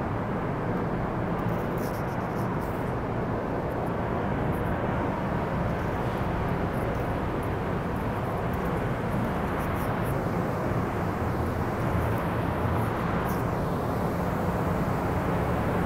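Steady low rumble and hum of standing NJ Transit commuter trains idling at an underground platform, even throughout with no single event standing out.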